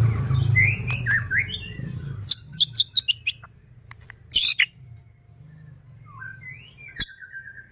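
White-rumped shama (murai batu) singing a varied song: whistled gliding notes mixed with sharp, high crackling notes (the 'kretekan'), ending on a held buzzy note. A low hum fades out in the first two seconds.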